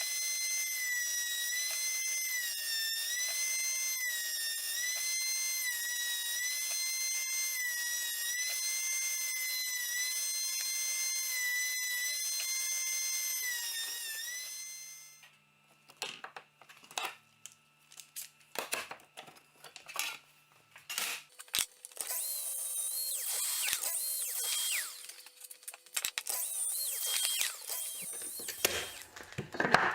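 A high-speed power tool runs with a steady high whine that dips slightly in pitch about once a second, then cuts off about halfway through. Scattered sharp knocks and clicks of work on wood follow, and near the end a hissing tool noise comes in.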